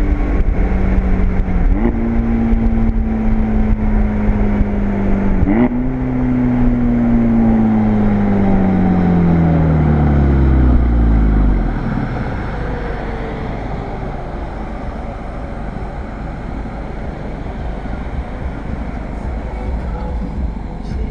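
Volkswagen GTI's turbocharged four-cylinder running through an APR turbo-back exhaust: the engine note jumps up in pitch twice, then falls steadily for several seconds as the revs come down. After that it gives way to a steady rush.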